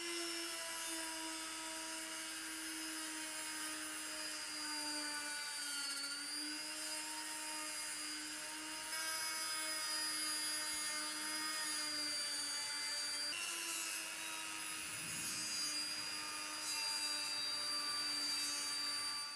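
An electric power tool's motor running with a steady whine, its pitch dipping briefly as load comes on, about six seconds in and again about thirteen seconds in, with rubbing and scraping of the work against metal.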